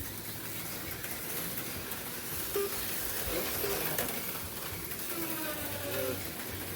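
HO-scale slot cars running on the track: a steady buzzing hiss from their small electric motors and pickup shoes on the rails, with a low hum under it and faint voices.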